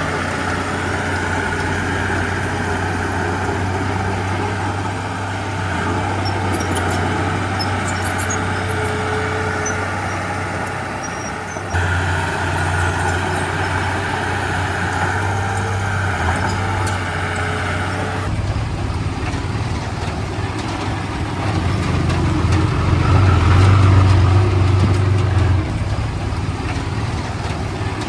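Heavy diesel earthmoving machinery running steadily with a low engine drone. The sound shifts abruptly twice, and the engine grows louder for a few seconds near the end.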